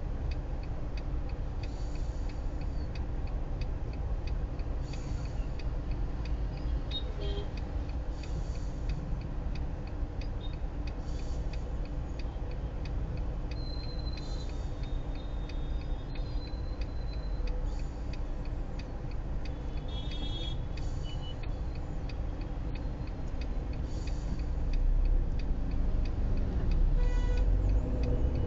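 Low, steady rumble of a car idling and creeping in traffic, heard inside the car, with a regular fine ticking and a brighter swish about every three seconds, typical of windscreen wipers in rain. A couple of brief high tones sound near the middle, and the rumble swells near the end as traffic moves off.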